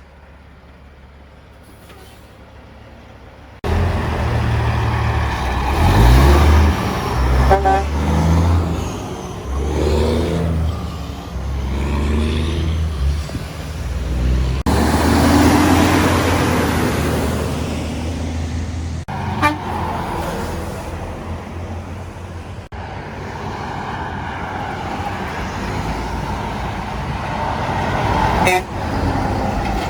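Semi trucks passing on a highway, their engines and tyres loud, with the engine note stepping up and down. The sound is a string of short clips joined by abrupt cuts, and the first few seconds are much quieter.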